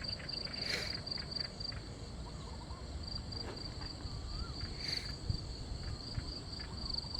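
Crickets trilling: a steady, high-pitched pulsing chorus, with two short sharp noises, one about a second in and one near five seconds.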